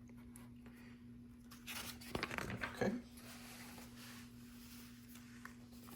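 Rustling and crinkling of plastic or paper with a few small clicks, as LEGO pieces and their packaging are handled, strongest about two seconds in.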